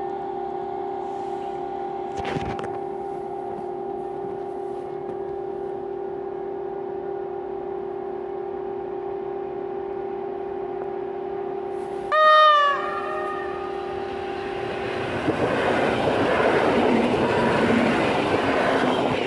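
A steady hum, then about twelve seconds in a single short horn blast from an approaching EN57-family electric multiple unit. From about fifteen seconds the train's wheels rumble louder as it passes close by.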